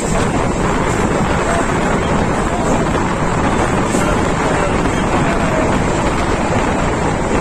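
Passenger train running at speed, with wind steadily buffeting the microphone at an open coach window.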